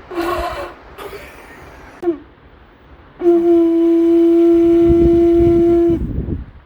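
A horn blown in one long steady note for about three seconds, cutting off sharply, after a brief shorter sound at the start. It is joked about as out of tune.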